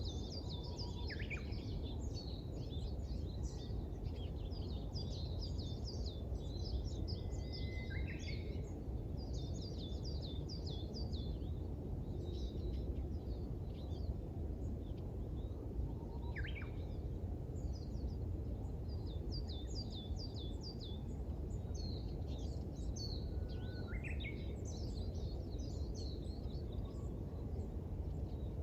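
Small songbirds twittering in quick bouts of high chirps, with a louder call that slides downward about every eight seconds, over a steady low rumble of city background noise.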